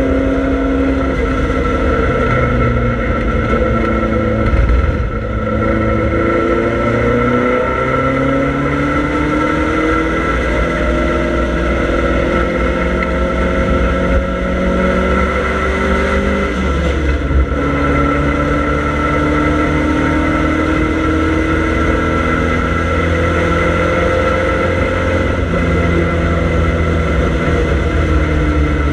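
Triumph Dolomite Sprint's 16-valve slant-four engine under hard racing load, heard from inside the cabin. Its pitch climbs steadily, falls back briefly about five seconds in and again around seventeen seconds in, then climbs again.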